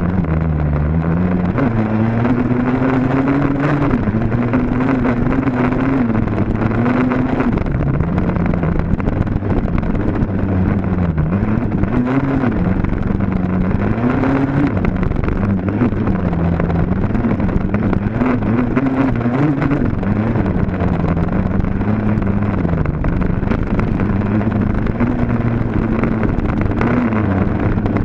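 Dirt bike engine running hard and close, its revs climbing and dropping again every second or two as the throttle is worked.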